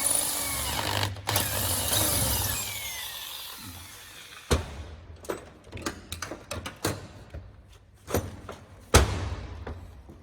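Electric drill running, reaming out a screw hole with a 3.85 mm bit, then winding down about three seconds in. After that come scattered clicks and knocks, with two sharp knocks about four and a half and nine seconds in.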